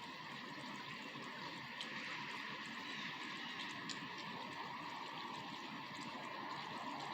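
Steady rain falling, a continuous patter with a few sharper drops standing out.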